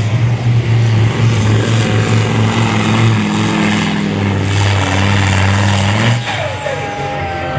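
Diesel engine of a supersport pulling truck running hard under load as it drags the sled, its pitch steady with small shifts. About six seconds in, the engine drops in level and pitch as it eases off.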